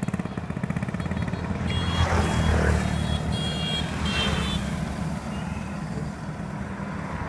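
Motorbike engine running steadily while riding, with road and wind noise. A few short, high-pitched beeps sound in the middle.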